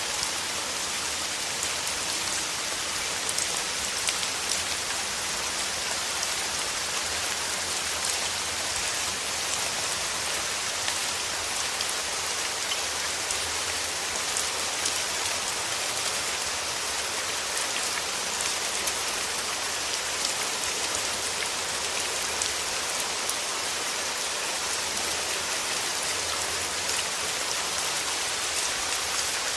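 Steady rain falling on a surface: an even hiss with many fine, close-spaced drop ticks.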